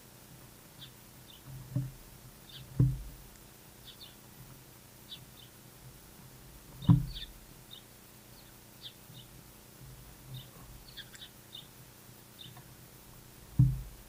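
Small birds chirping now and then in short high notes, with a few sudden dull low thumps: a light one, then three heavier ones, the loudest about seven seconds in.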